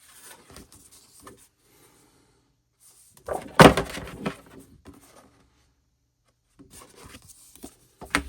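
Paper and card album packaging being handled: soft rustling and rubbing, with one louder scraping rustle lasting about a second a little over three seconds in and a sharp tap near the end.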